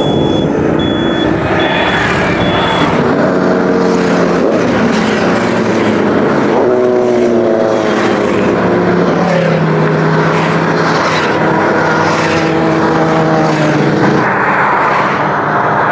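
Engines of a procession of superbikes and cars passing, several engine notes at once, their pitch rising and falling as they accelerate and ease off. A high beep repeats about twice a second for the first three seconds.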